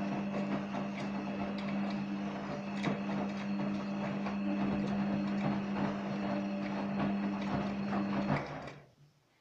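Gorenje WA50060 washing machine running with a steady low hum and a constant light clicking and rattling. It winds down and stops about eight and a half seconds in.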